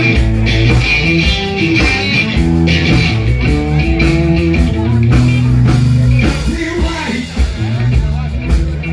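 Live band playing a blues-rock number, with electric guitar over a steady bass line.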